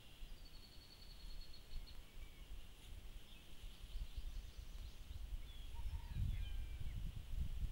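Woodland birds singing: a rapid high trill of about a second and a half near the start, then scattered short chirps. Under them runs a low rumble that grows louder toward the end.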